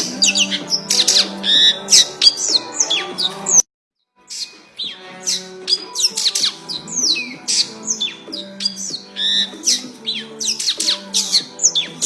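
Eurasian tree sparrow chirping rapidly, with many short, sharp, falling chirps over background music. The sound cuts out completely for about half a second a little over three seconds in.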